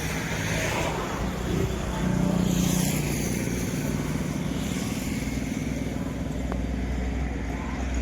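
Express train hauled by a WAG9HC electric locomotive running along the track: a steady low hum with swells of higher wheel-on-rail noise.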